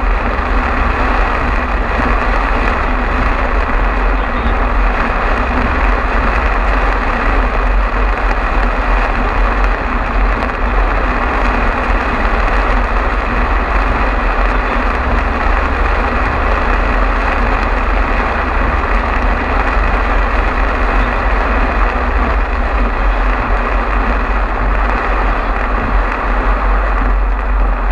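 Heavy storm rain on a moving car: a loud, steady hiss over a low rumble of road and engine noise.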